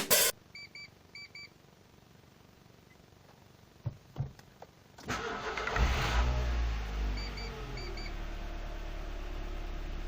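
Two pairs of short electronic beeps and a couple of clicks, then a Mitsubishi car engine cranks and starts about five seconds in, flares briefly and settles into a steady idle, with another pair of short beeps as it settles.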